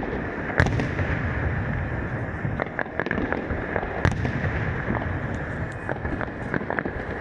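New Year's fireworks going off: a continuous rumble and crackle with many sharp bangs of bursting shells, the loudest about half a second in and about four seconds in.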